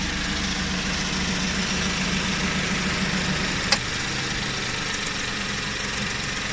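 Suzuki K6A 660 cc three-cylinder engine idling steadily, quiet, with no rattle from its newly replaced tensioner bearing and no squeal from the serpentine belt. A single sharp click is heard a little over halfway through.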